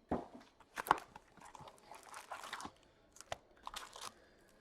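Trading-card pack wrappers crinkling and tearing as packs are opened by hand, with irregular sharp clicks and a longer crackly spell around the middle.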